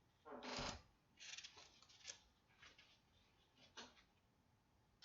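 Near silence: room tone with a few faint, short rustles and clicks, the loudest about half a second in.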